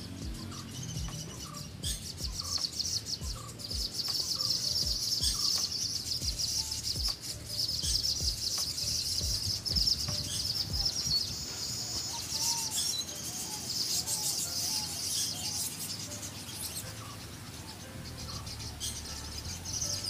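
Birds chirping and singing in a dense, high-pitched chorus that is strongest through the middle, over background music with a low beat.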